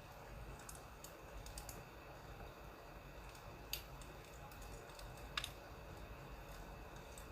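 Firewood crackling faintly: scattered sharp little pops over a low steady rumble, with two louder pops a little past the middle.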